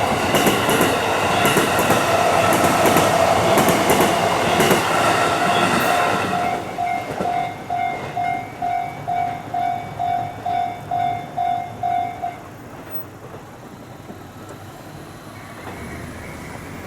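A JR Mito Line train passes over a level crossing, its wheels clattering over the rail joints, while the crossing's warning bell rings. The train clears about six seconds in. The bell keeps ringing on its own, about two dings a second, and stops about twelve seconds in.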